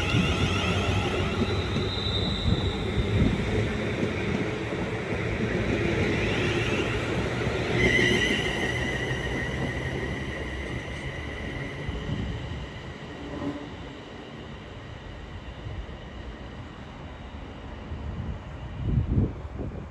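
Class 350 electric multiple unit pulling out and running away: rumbling with high-pitched whining tones over it, fading as it leaves, with a low thump near the end.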